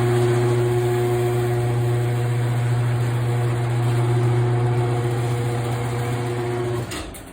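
LiftMaster chain-drive garage door opener running with a steady hum, then cutting off about seven seconds in as the door finishes its travel.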